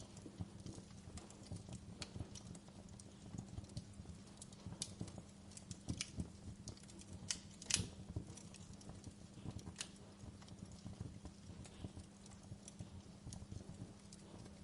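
Wood fire in a fireplace crackling, with irregular sharp pops of burning logs over a steady low background; the loudest pop comes just under eight seconds in.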